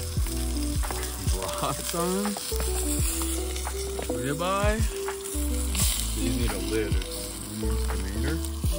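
Sausages sizzling in a cast-iron skillet on a camp grill stove, a steady hiss, under background music with held notes, bass and occasional drum hits.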